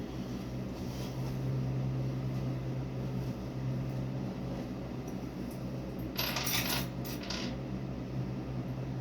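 Small metal pieces clinking and jingling together in a quick cluster about six seconds in, over a steady low hum.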